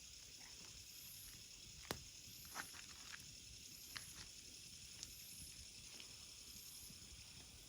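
Quiet wood fire crackling, with a few sharp pops from the burning wood over a faint steady hiss.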